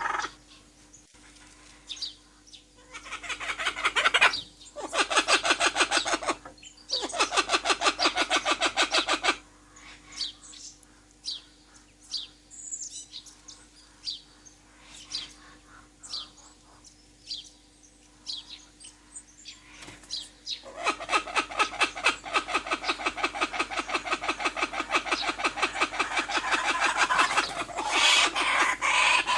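Forest birds calling: several bouts of fast, evenly repeated chattering calls, each a few seconds long, with sparser single chirps between them through the middle.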